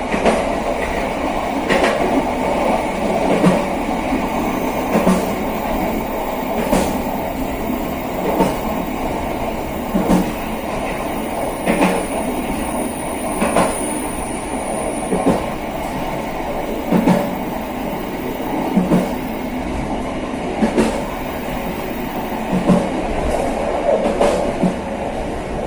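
Passenger train running along the track: a steady rumble of wheels and carriages, with a regular clack about every second and a half to two seconds as the wheels cross rail joints.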